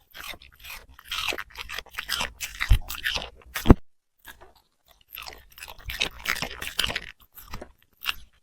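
A puppy chewing and crunching food in two spells of crackly bites, with a pause between them. Two sharp knocks stand out in the middle of the first spell.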